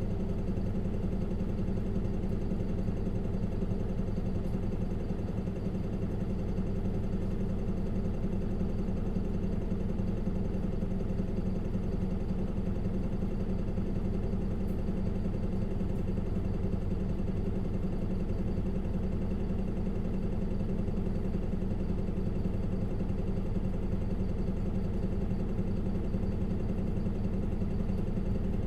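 Isuzu Erga LV290N1 city bus's four-cylinder diesel engine running at a steady, unchanging note, heard from inside the passenger cabin.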